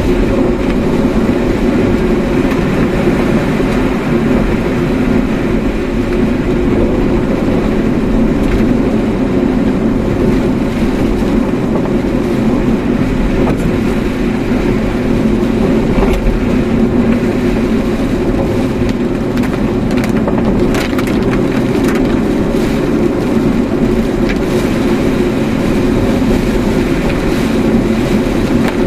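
Steady road and engine noise of a car being driven, heard from inside the cabin, with a few faint clicks about two-thirds of the way through.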